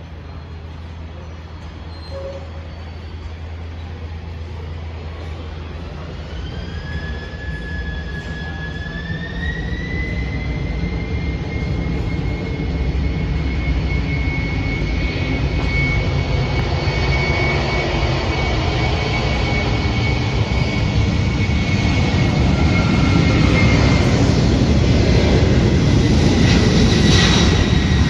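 Boeing 767 freighter's twin turbofan engines spooling up for takeoff: a whine rises in pitch several seconds in and then holds steady, while the roar grows steadily louder.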